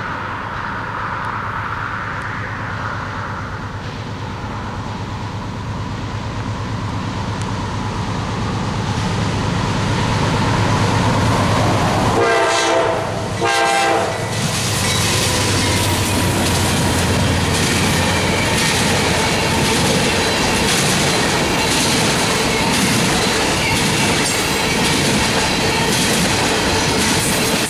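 GE diesel locomotives of a CSX freight approaching with a growing engine rumble, then two short horn blasts about 12 seconds in as the lead unit comes by. Loaded tank cars follow, rolling past with a rhythmic clickety-clack of wheels over rail joints.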